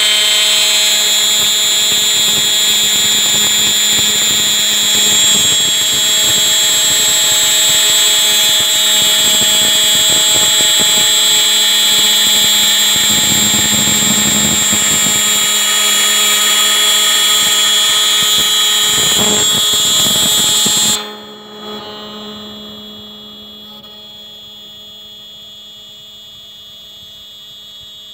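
CNC lock-milling machine's spindle running with a steady high-pitched whine on an aluminium profile, then shutting off about 21 seconds in, leaving a quieter steady hum.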